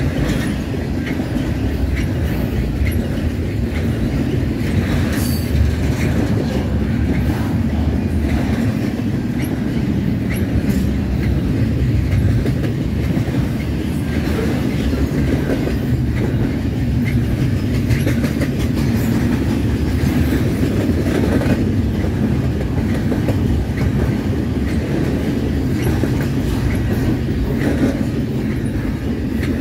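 Double-stack intermodal container train rolling steadily past: steel wheels rumbling on the rails, with repeated clicks as the well cars' wheels cross rail joints.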